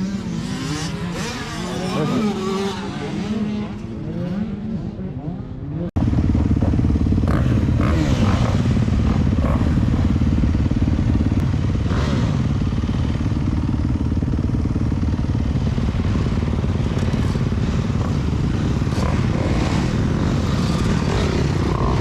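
Dirt bike engine revving, its pitch rising and falling. About six seconds in, the sound cuts abruptly to a louder, steadier engine run with some clattering, as of a four-stroke motocross bike ridden hard around a track.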